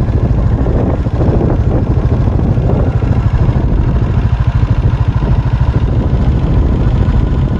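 Custom Suzuki cruiser motorcycle engine running steadily on the move, a dense, rapidly pulsing low drone.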